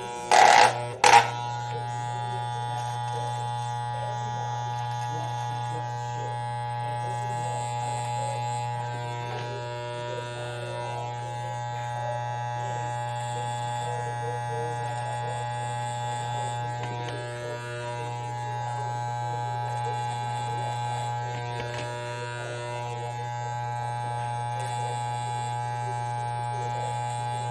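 Electric shaver buzzing steadily throughout, with two short, loud sounds about half a second and a second in.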